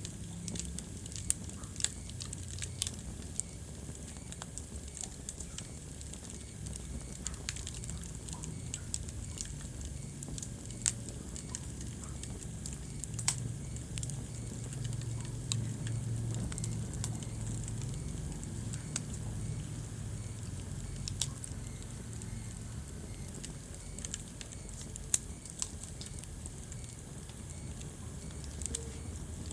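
Wood fire burning in a fireplace: irregular sharp crackles and pops, a few much louder than the rest, over a low steady rumble.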